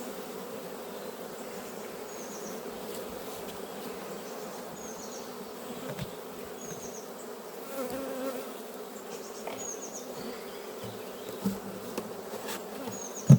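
Honey bees buzzing around an opened hive: a steady hum of many bees. A short high chirp recurs every second or two, and there are a couple of knocks near the end.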